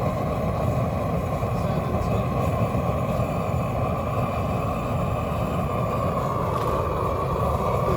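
Flame-thrower burner running with a steady roar of flame.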